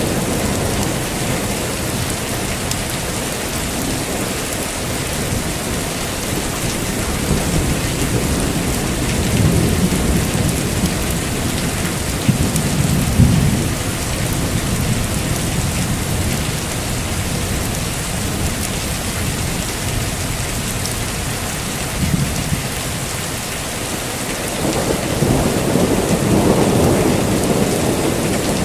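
Heavy rain falling steadily, with rolling thunder rumbling low twice, once in the middle with a couple of sharper cracks and again near the end.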